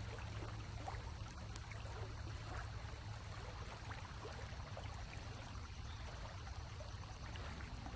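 Faint, steady water sound with scattered small ticks and splashes, over a low steady electrical hum.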